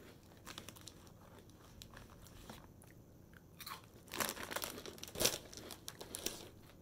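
Crunching as a crisp corn-and-rice snack chip is chewed, faint at first and louder and denser from about four seconds in, with one sharp crunch near the end.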